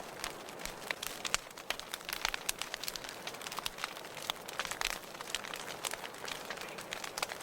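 Wood fire in a fireplace crackling: irregular sharp pops and snaps, several a second, over a steady soft hiss.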